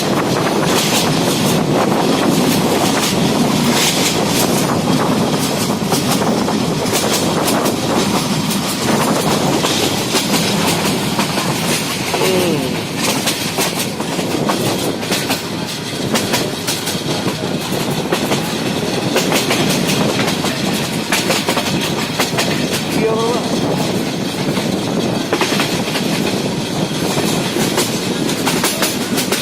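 Passenger train running, its wheels clattering steadily over the rail joints with many sharp clicks over a continuous rumble.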